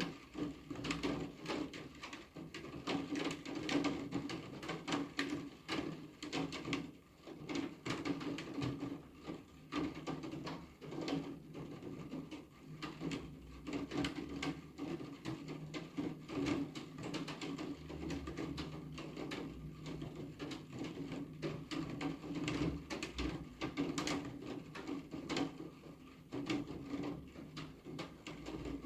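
Rain falling, with dense, irregular drops tapping sharply on a hard surface over a steady low hum.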